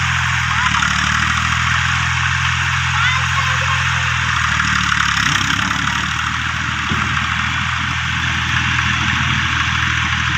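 An engine idling steadily with a low, even drone, under a constant high hiss.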